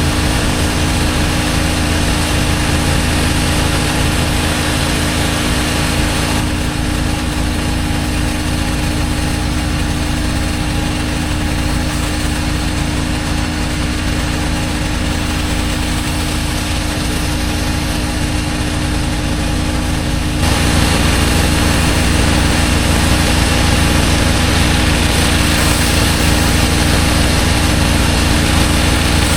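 Engine-driven pressure washer running steadily, its engine humming under the hiss of the high-pressure spray. The hiss eases about six seconds in and grows louder again about twenty seconds in.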